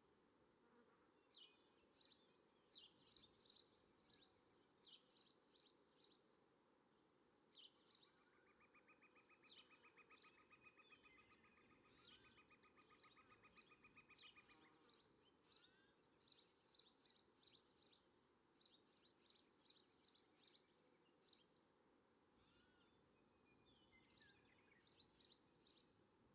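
Faint bird chirps: many short, high chirps repeated throughout, with a buzzing trill lasting about seven seconds in the middle.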